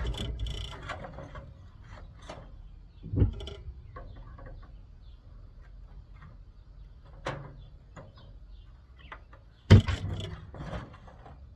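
Knocks and clatter of air conditioner parts being handled and pulled apart during scrap disassembly, with the loudest knock near the end and another about three seconds in, between quieter rattles.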